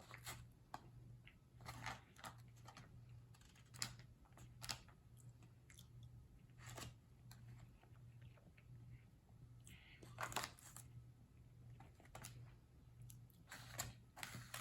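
A person eating jambalaya rice: quiet chewing and mouth sounds with scattered small clicks, over a faint steady low hum.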